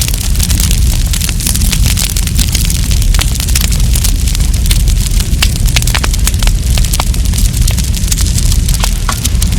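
Wood campfire crackling: frequent sharp snaps and pops over a steady low rush.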